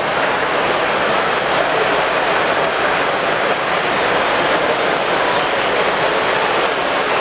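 Steady roar of background noise in a busy exhibition hall, even and unchanging throughout.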